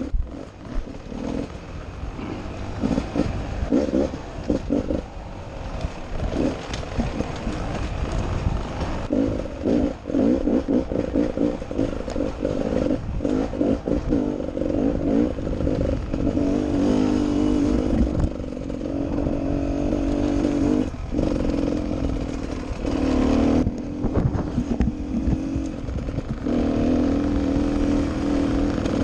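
Enduro dirt bike engine revving up and down under constant throttle changes, with rattling knocks from the bike over rough ground. From about halfway the engine note steadies into longer pulls.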